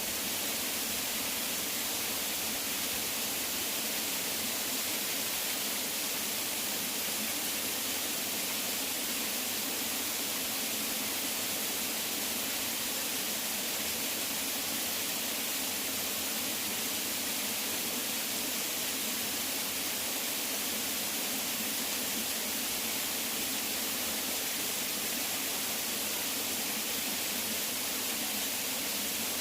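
Waterfall: water falling and splashing in a steady, unbroken rush, bright and hissy in tone.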